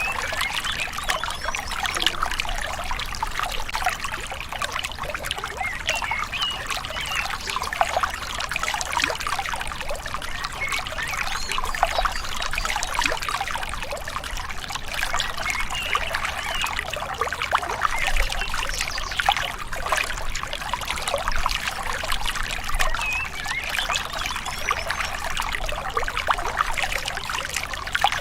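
Small river flowing steadily, its water babbling and trickling in a continuous, even stream.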